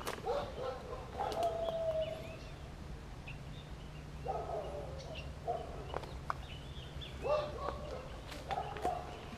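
A bird calling several times in short groups of calls, over footsteps and snapping twigs on mud.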